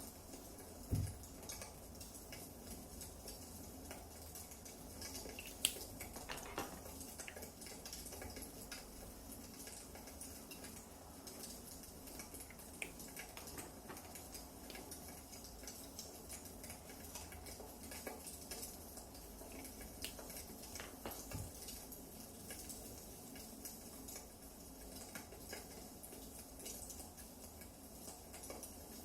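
Wood fire crackling: a soft steady hiss with irregular small pops and snaps of burning firewood. There is a dull knock about a second in and a few sharper snaps later.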